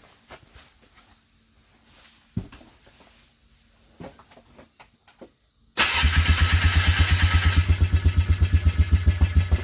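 A few faint clicks and a knock, then about six seconds in an engine starts cranking on its starter in a cold start: a loud, even beat of about eight compression pulses a second that has not caught by the end.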